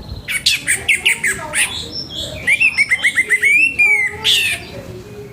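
Orange-headed thrush singing a loud, varied song: a volley of quick sharp notes, then a fast run of repeated rising notes and a short buzzy phrase, ending with a sweeping note.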